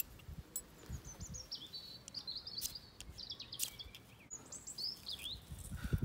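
A songbird singing two bursts of fast, high, twittering notes, the first long and the second short, over soft low thuds of footsteps.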